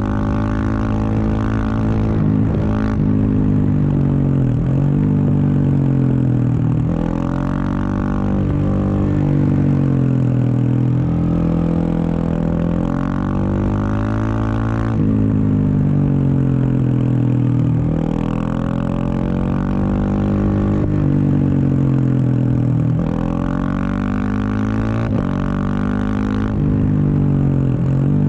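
Husqvarna 701 Supermoto's single-cylinder engine through a Wings exhaust, under way: the engine note climbs and falls again and again, with sudden breaks every few seconds as the throttle is rolled on and off through the gears.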